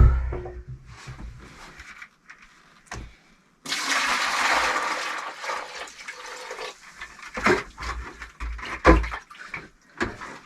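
Wet clay mortar being poured and sloshed out of a barrel for about three seconds from roughly four seconds in. A heavy thump comes at the start and a few knocks near the end.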